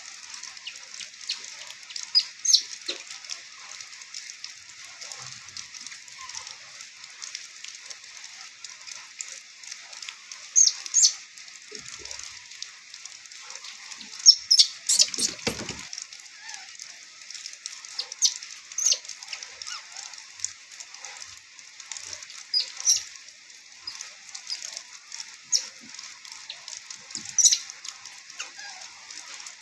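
Steady hiss of rain, with scattered sharp high ticks and clicks that come and go, clustering about 14 to 15 seconds in.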